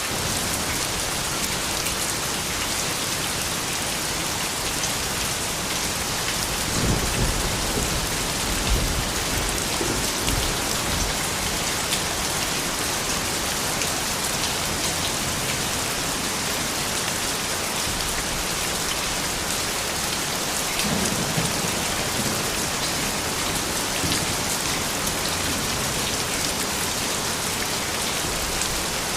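Steady rain falling, an even dense hiss of drops, with a few brief low rumbles about seven to eleven seconds in and again around twenty-one seconds.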